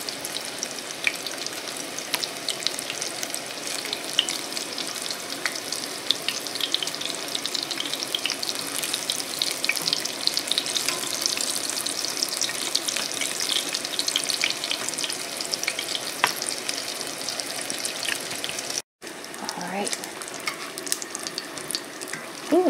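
Battered eggs shallow-frying in hot oil in a cast-iron skillet: a steady sizzle full of fine crackles. The sound cuts out for a moment near the end.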